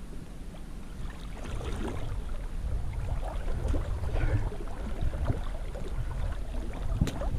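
A steady low rumble with scattered light splashes and knocks in shallow floodwater.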